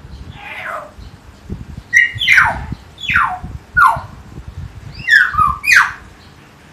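Common hill myna giving a run of about six loud calls, each sliding sharply down in pitch, starting softly and coming in quick pairs from about two seconds in.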